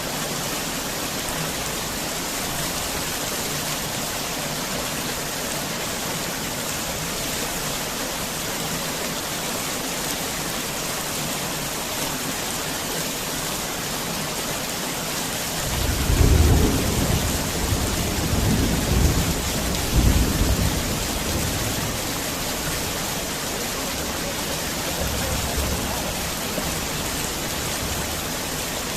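Heavy rain falling steadily, with a roll of thunder rumbling in about halfway through, peaking twice and fading away, and a fainter rumble near the end.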